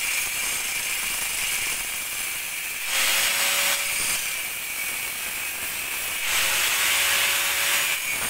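Welding on a steel exhaust pipe: a steady hiss, louder for about a second three seconds in and again for a couple of seconds near the end.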